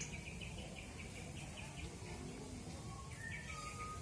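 Birds chirping: a quick run of short, repeated chirps for the first second or so, then a couple of brief clear whistles near the end, over a low background rumble.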